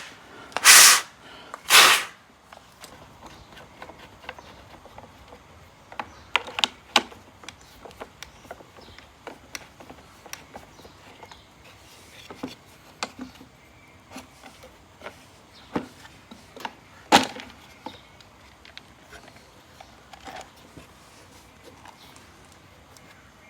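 Hand tools and plastic mower parts being handled while the electric lawn mower is taken apart: scattered clicks, knocks and rubbing. Two loud, noisy bursts come in the first two seconds, and a single sharp click comes about two-thirds of the way through.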